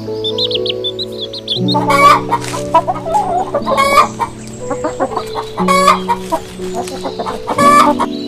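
Chickens clucking, starting about two seconds in, with the loudest calls coming roughly every two seconds, over steady background music.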